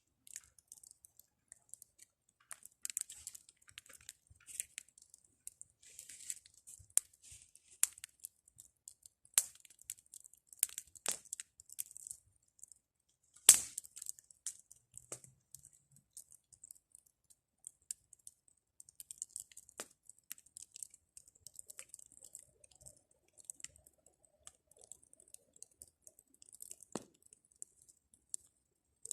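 Small wood fire of pruned branches burning down, crackling with irregular snaps and pops over a faint hiss, with one louder pop about halfway.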